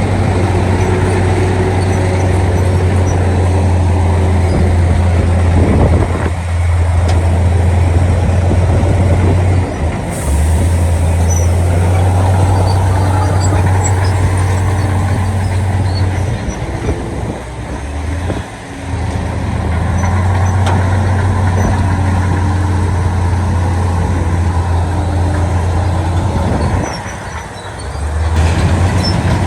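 Heavy diesel construction machinery running, a deep steady engine drone that dips briefly several times.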